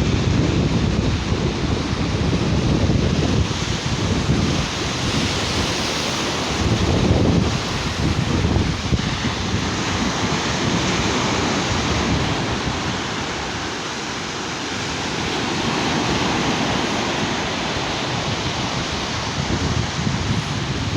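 Sea waves breaking on a sandy beach, with wind buffeting the microphone. The surf swells and eases slowly.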